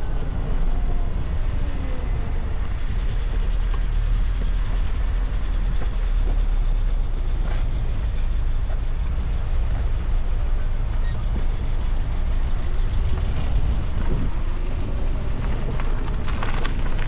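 Steady low wind rumble and road noise while riding a VMoto Stash electric motorcycle in city traffic, with surrounding vehicles passing. A few sharp clicks come near the end.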